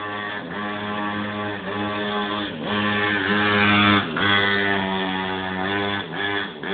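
Mini moto (pocket bike) engine running at high revs. The pitch holds steady and dips briefly several times as the throttle is eased off, and it is loudest about three to four seconds in.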